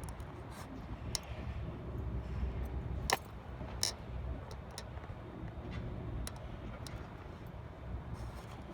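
Steady low rumble of wind and movement on the microphone, with scattered sharp clicks and ticks; the loudest clicks come about three seconds in and again just under a second later.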